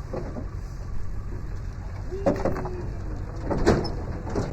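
A pigeon cooing a little after two seconds in, over a steady low engine-like rumble.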